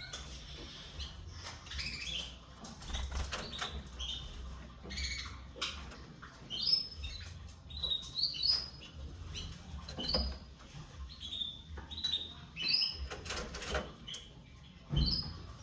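Canary chirping: a string of short, high calls, each rising or falling in pitch, about one a second. Sharp knocks and fluttering fall between them.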